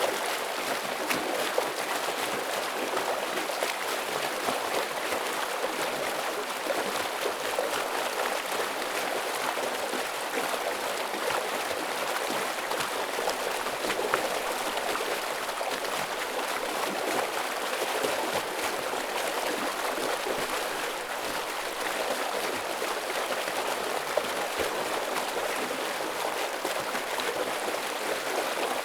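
A stream running over rocks, a steady heavy rush of flowing water with small splashes and gurgles scattered through it.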